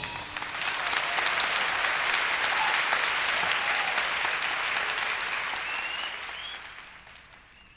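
Concert audience applauding at the end of a song, swelling within the first second, holding steady, then dying away over the last couple of seconds.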